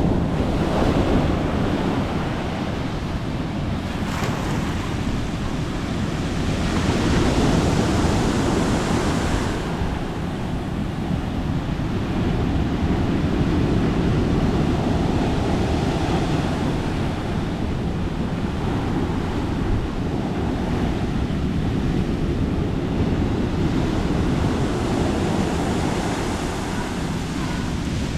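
Sea waves breaking and washing up the beach in repeated swells, the biggest surge coming about seven seconds in. Wind gusts on the microphone.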